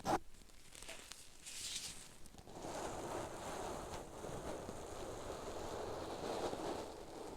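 A sharp tap right at the start, then from about two and a half seconds in a steady, grainy rustling made close to the microphone.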